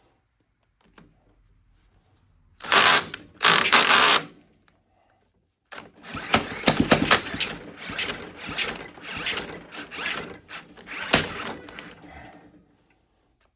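Cordless drill driving a nut in short runs: two loud bursts, then a long rattling, clicking run. The drill is on its last leg and its battery is running down.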